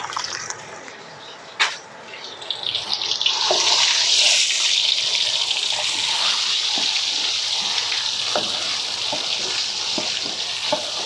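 Red curry paste sizzling in hot oil in a large aluminium pot as a ladle breaks it up and stirs it. A steady hiss swells in about three seconds in and holds; a single sharp click comes earlier.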